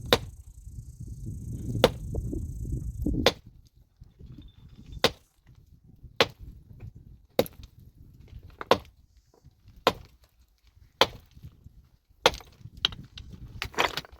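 A hand tool struck hard again and again in a steady rhythm, about one sharp blow every second and a bit, a dozen strikes in all. A low rumble sits under the first few blows.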